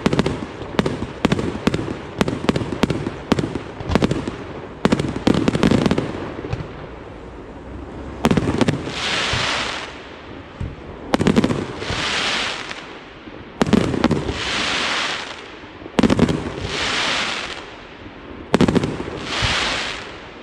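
Aerial fireworks: a rapid volley of sharp bangs for about the first six seconds. Then five single heavy bursts about two and a half seconds apart, each followed by a hissing shower that swells and fades over about a second and a half.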